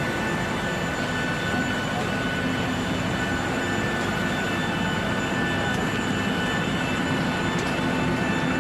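Steady jet whine and roar from a parked airliner, with several high steady tones over an even rush.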